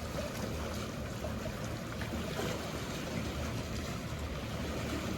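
Steady seaside ambience: sea water washing and lapping, with the low, constant hum of boat engines underneath.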